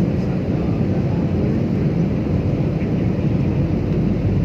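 Steady, low cabin noise of a jet airliner in flight, heard from inside the passenger cabin: even engine and airflow noise with no changes.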